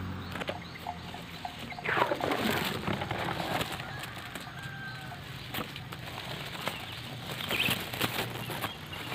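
Bird calls over an outdoor background, with one loud call falling in pitch about two seconds in and a few shorter calls later.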